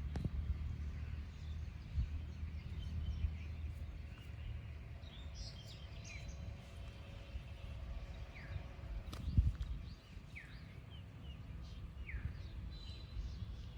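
Birds giving a few short, faint, downward-sliding chirps over a steady low rumble, with one sharp thump about nine seconds in.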